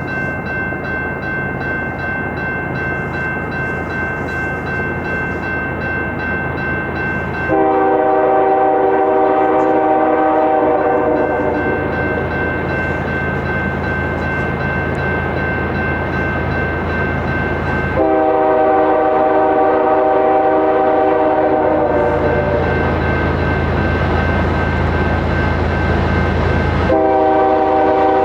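Locomotive air horn sounding long chord blasts, the first about a quarter of the way in, the second past the middle, and a third starting near the end. Under them runs the steady rumble of a passing train with a constant high whine.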